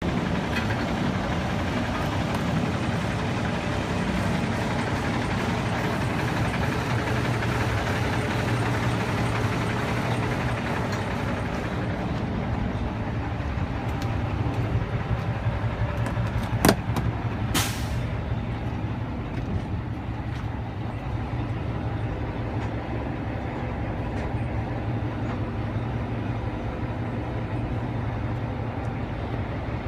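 Detroit DD15 diesel engine of a 2010 Freightliner Cascadia running steadily at idle. About 17 seconds in there is a sharp click, followed by a short hiss of air.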